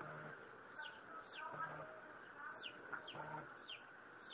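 Faint bird calls: short high chirps that drop in pitch, often in quick pairs, over a short low call that repeats about every second and a half.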